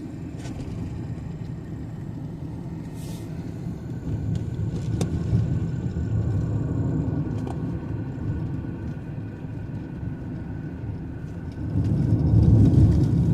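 Car driving on the road: a steady low rumble of engine and tyres that swells louder about four seconds in and again near the end.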